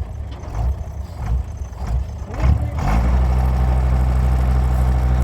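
Tractor diesel engine chugging unevenly, then revving up about two and a half seconds in and holding at high revs, running hard under load to pull out of deep mud.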